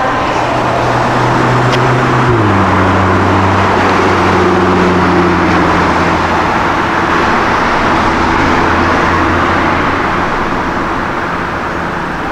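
A car engine running steadily, its pitch dropping sharply about two seconds in, as at a gear change, then holding and growing fainter near the end, over road and traffic noise.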